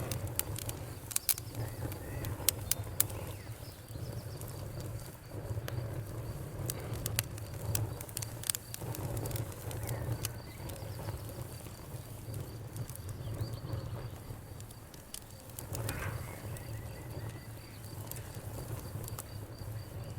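Fireplace fire crackling, with sharp pops scattered throughout and thickest in the first few seconds, over a low rumble from the flames. A faint steady high trill runs underneath.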